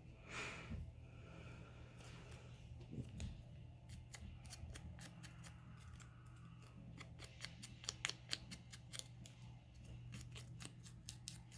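Scissors snipping: a run of small, quick cuts, sparse at first and coming thicker in the second half.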